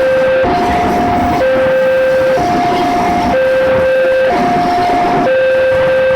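Railway level-crossing warning alarm sounding two alternating tones, a lower and a higher one, switching about once a second, over a continuous rumble of rail traffic.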